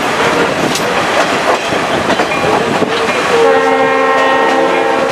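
Chepe passenger train running, heard from an open window between cars: the rush and clatter of wheels on the track. About three seconds in, the locomotive's horn sounds a steady chord that is still held at the end.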